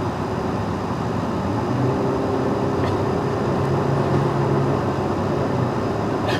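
Steady road and engine noise of a car driving on the highway, heard from inside the cabin. A low hum swells and fades in the middle.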